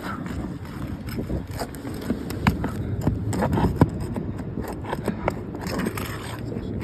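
Scraping and irregular sharp clicks of a tool working under asphalt roof shingles to pull out the roofing nails.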